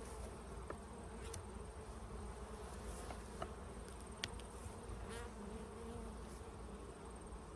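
Honeybees buzzing around an opened hive, a steady wavering hum, with a few faint clicks.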